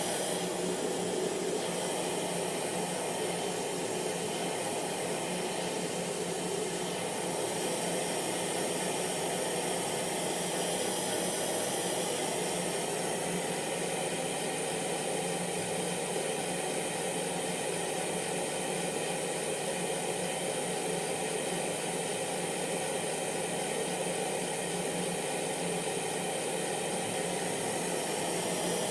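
Hair dryer running continuously: a steady blowing rush with a low motor hum and a faint high whine, unchanging in level.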